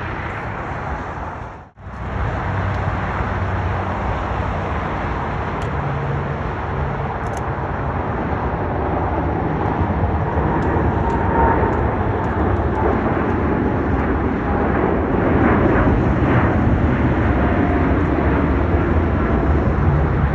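Jet airliner engine noise, growing steadily louder, with a brief dropout in the sound near the start.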